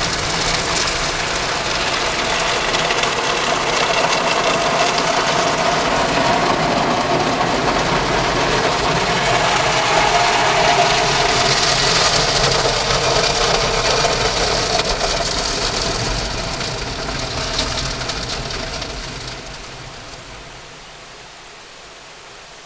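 Automatic car wash at its hot wax stage: a steady rush of spraying and machinery over the car, with a low rumble underneath. It dies away to a quieter steady hum in the last few seconds.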